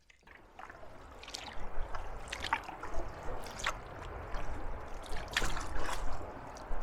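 Steady rush of river rapids ahead, growing from about half a second in, with intermittent splashes and drips from canoe paddle strokes.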